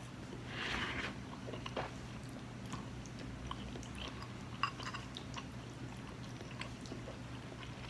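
A person chewing a mouthful of pork and noodles close to the microphone, with many small wet mouth clicks. There is a short rushing noise about a second in. A steady low hum runs underneath.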